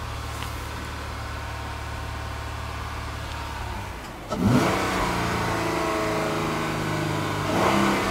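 2008 Acura MDX's 3.7 L VTEC V6 idling steadily, heard from inside the cabin. About four seconds in it is revved up and held, then blipped higher to about 4,000 rpm near the end.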